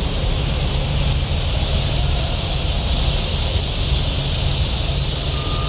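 Wind buffeting the microphone as a steady low rumble, with a steady high-pitched hiss throughout.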